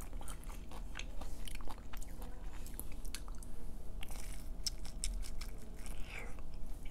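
Close-miked eating sounds: biting into a slice of pizza and chewing it, with many short crackly clicks and crunches.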